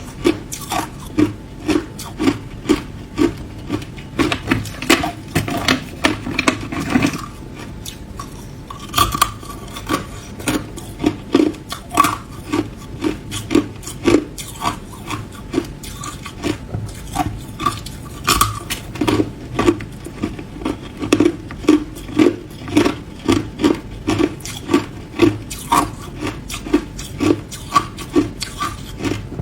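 Ice being crunched and chewed between the teeth close to the microphone, in a steady rhythm of about two crunches a second. The crunching thins out for a few seconds about a quarter of the way in, then picks up again.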